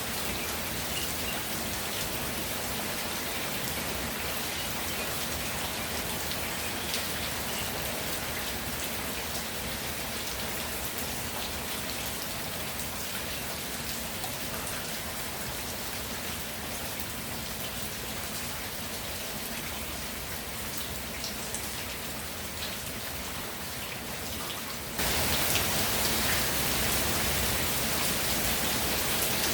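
Steady rain falling, an even hiss with scattered drop impacts. About 25 seconds in it suddenly becomes louder.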